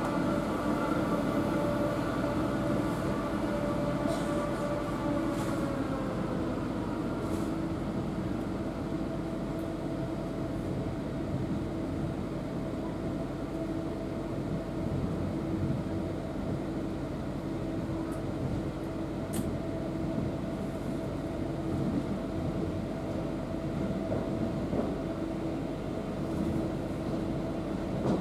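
Running noise inside a Class 323 electric multiple unit carriage on the move: a steady rumble under a whine from the electric traction equipment. Several of the whining tones drop in pitch about five seconds in, and a steadier hum carries on, with a few faint clicks.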